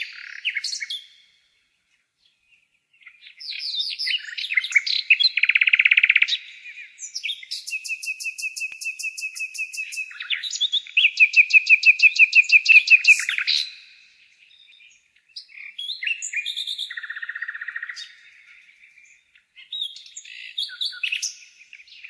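Nightingale singing: separate phrases of fast repeated notes, dry rattles and whistles, with short pauses between them. The loudest run of repeated notes comes about halfway through.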